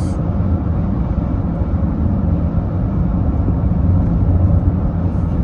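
Steady low rumble of a car heard from inside the cabin: engine and road noise while the car is running.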